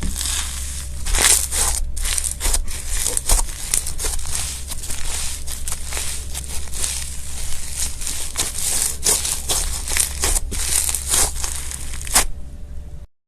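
Crunchy slime being squeezed and pressed by hand: a dense, continuous crackling and crunching that cuts off suddenly near the end.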